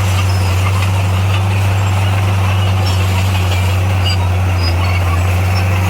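Heavy earthmoving machine's diesel engine running at a constant speed, a low steady drone.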